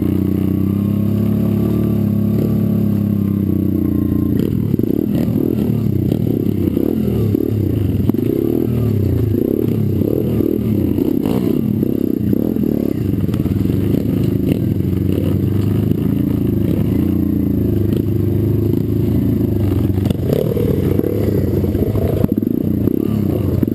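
Pit bike engine running hard under a rider, its pitch rising and falling with the throttle. From about four seconds in it is mixed with frequent knocks and rattles from the ride.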